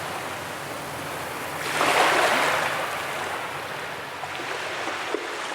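Ocean surf washing onto a beach: one wave swells and breaks about two seconds in, then slowly recedes, with a short click near the end.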